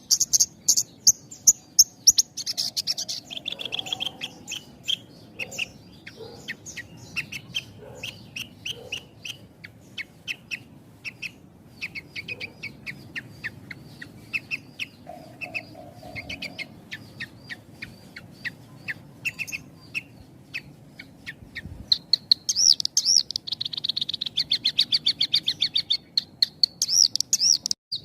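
Javan bush lark (branjangan) singing a fast, continuous run of high chirps and trills with only brief pauses. Dense rapid trills come near the start and again late on.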